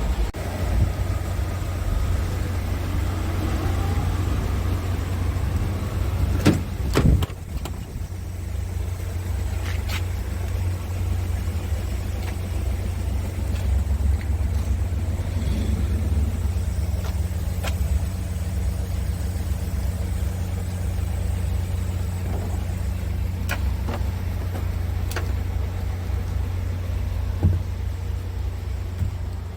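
Scania R500 truck's V8 diesel engine idling steadily, with a few sharp knocks and clicks, the loudest about seven seconds in.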